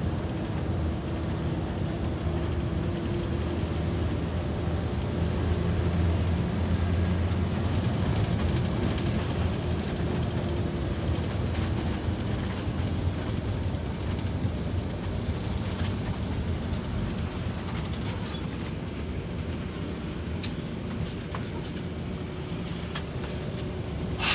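Mercedes-Benz double-decker coach on the move: a steady low engine drone under road and tyre noise, the engine note swelling a little a few seconds in and then easing.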